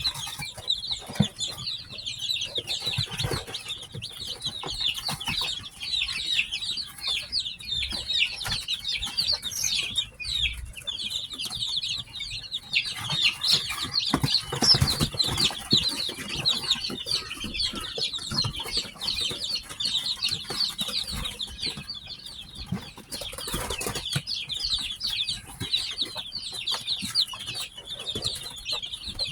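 A crowd of newly hatched baby chicks peeping continuously, many short high chirps overlapping, with occasional soft thumps and rustling.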